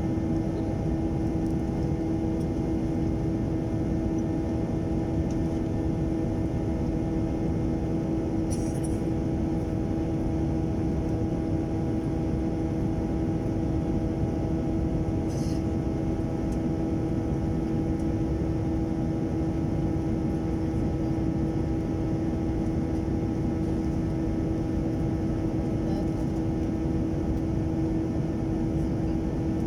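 Jet airliner engines and airflow heard inside the passenger cabin in flight: a steady low rush with a constant hum, unchanging throughout, and a couple of faint ticks.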